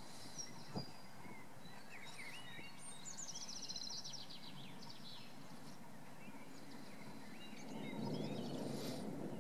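Small birds chirping, with a quick trill of repeated notes a few seconds in, over steady low background noise. About eight seconds in, a louder low rumble swells up beneath them.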